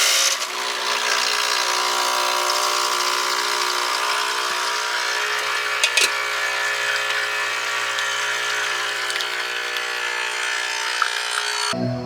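A small electric motor running steadily with a strong hiss, stopping suddenly near the end.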